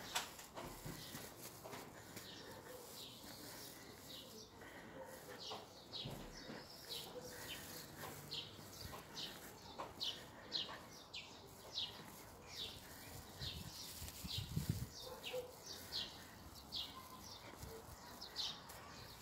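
A small songbird chirping over and over, short high falling notes about twice a second. A brief low thump about fourteen seconds in.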